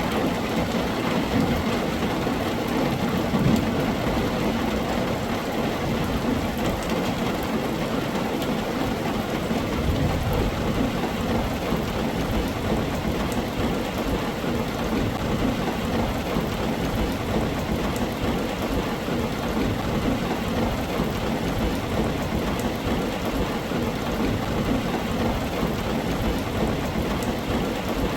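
Heavy rain drumming steadily on a tin roof, with low rumbles of thunder, one about three seconds in and another near ten seconds.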